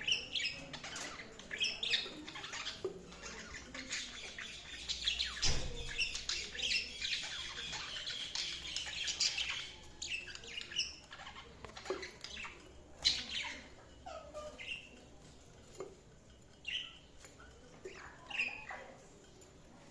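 Budgerigars chirping and warbling: a dense run of chatter in the first half, giving way to scattered short calls in the second half.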